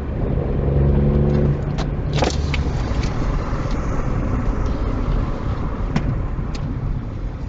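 Car engine and road noise: a steady engine note for about the first second and a half, then a steady rumble.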